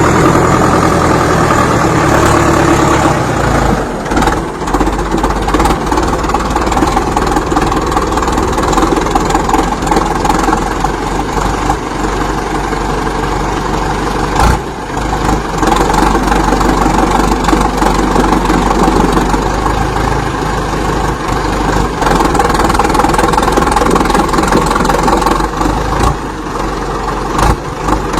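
Ford 6600 tractor's diesel engine running steadily at a low, even speed, with a few brief dips in loudness.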